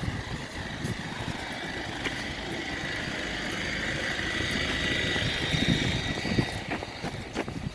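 Northern Ireland Railways diesel train running over the level crossing. A rising whine and rumble grow louder and peak about five seconds in, then sharp wheel clicks over the rail joints follow near the end.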